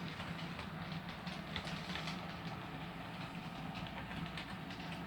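Model train running on the layout track: a steady electric motor hum with light, irregular clicking of the wheels over the rail joints.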